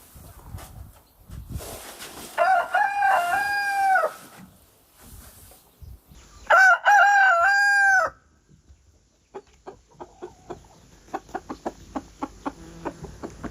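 Rooster crowing twice, each a long cock-a-doodle-doo of about a second and a half, followed by a run of short, sharp clicks.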